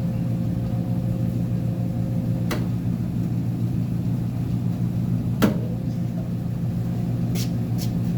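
Uni-Mac UniMat 35 commercial front-load washer running with a steady low hum, with a few sharp clicks about two and a half and five and a half seconds in and again near the end.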